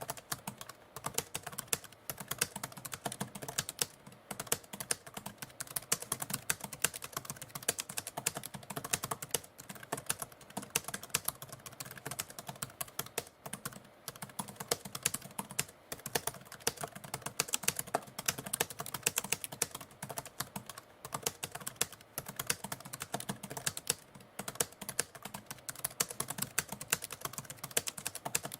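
Typewriter keys striking in a fast, continuous stream of clicks, broken by brief pauses every few seconds.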